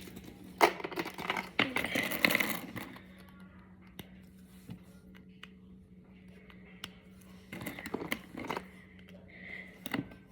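Small plastic Brain Flakes discs clicking and clattering as they are handled and pushed together, in scattered bursts of sharp clicks.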